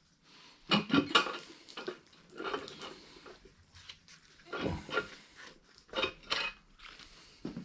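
Metal clanks and knocks of hand tools and engine parts as a cylinder head is worked loose and lifted off an LS V8 engine block on a stand. The knocks come in small clusters about a second in, near the middle and again about six seconds in, with brief ringing after them.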